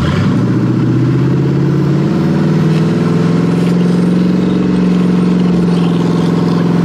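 Car engine running while Jell-O is sucked in through a vacuum line. Its speed rises a little about two to three seconds in and then holds steady at the higher pitch.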